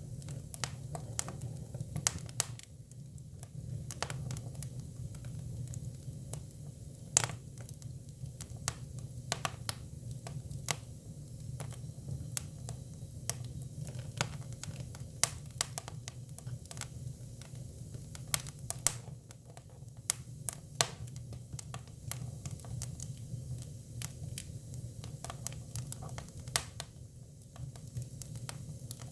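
Hinoki cypress firewood burning: irregular sharp crackles and pops, some louder than others, over a steady low rumble of the fire.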